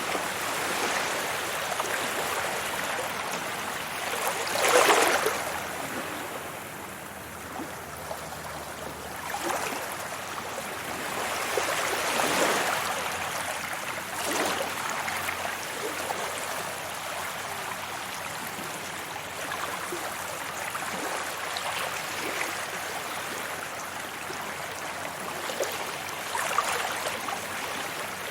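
Sea waves breaking on a beach: a continuous wash of surf, with louder breakers swelling and fading about 5 and 12 seconds in and again near the end.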